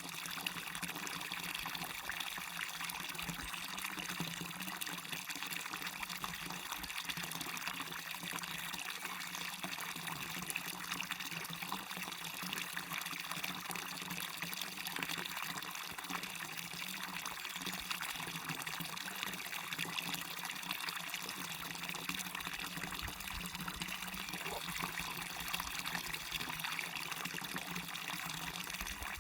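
Waterfall: water falling and splashing in a steady, even rush that doesn't change.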